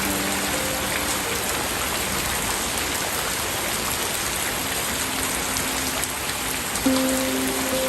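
Steady heavy rain falling, an even dense patter. A few soft, slow held musical notes sound over it, the loudest struck about seven seconds in.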